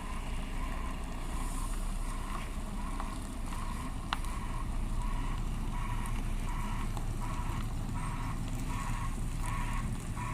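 Warning beeper on a crane truck sounding a steady run of short two-tone beeps, a little under two a second, growing louder, over the truck's diesel engine running.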